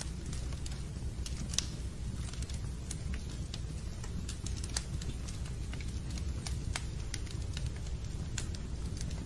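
Fireplace fire crackling: scattered sharp pops and clicks over a steady low rumble.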